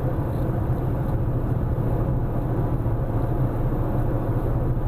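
Steady road and engine noise heard from inside a car cruising at highway speed, a low, even rumble.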